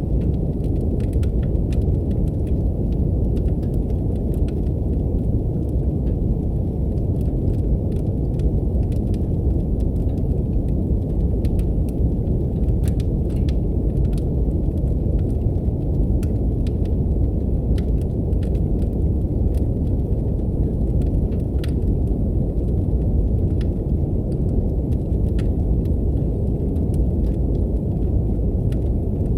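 Steady, deep brown noise, a dense rumbling hiss with everything above about 1 kHz cut away, under the scattered small pops and snaps of a crackling wood fire.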